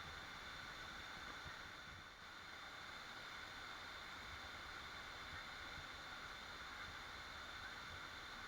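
Waterfall: a steady rush of falling water, dipping slightly for a moment about two seconds in.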